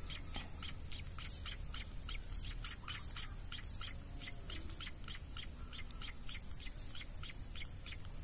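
Munia nestlings (emprit kaji) giving thin, high begging chirps, about four or five a second, while being hand-fed.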